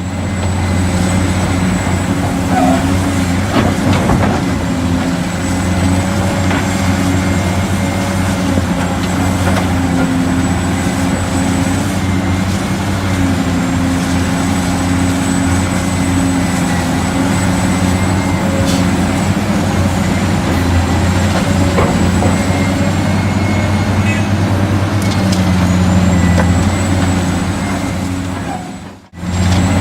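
Remote-control toy construction vehicles (a toy excavator and sand dump truck) running: a steady, engine-like low hum with a thin high whine, dropping out briefly near the end.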